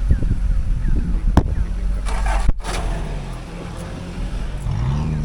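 Mazda BT-50 pickup driving on a rough road: a steady low rumble from the engine and tyres, with a few sharp knocks from bumps, the loudest about one and a half and two and a half seconds in.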